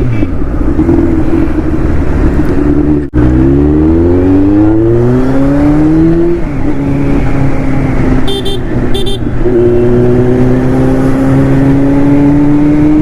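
Kawasaki Z900's inline-four through an aftermarket slip-on exhaust, accelerating hard: the engine note climbs steeply about three seconds in, drops at an upshift, then rises steadily again with another quick shift near ten seconds. Two short horn beeps sound about eight and nine seconds in.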